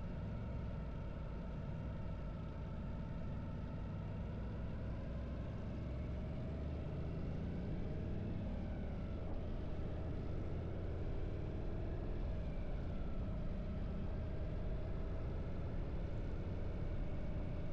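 Harley-Davidson V-twin motorcycle engine running under way, its pitch dipping and picking up again a couple of times about halfway through.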